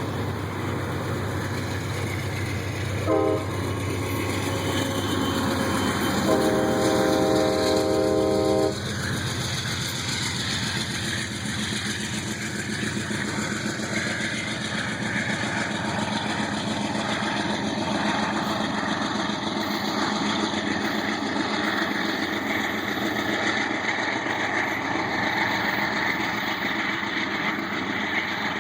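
Train horn sounding a short blast and then a longer blast of about two and a half seconds, several notes at once. After it comes the steady rumble and rail noise of the moving train.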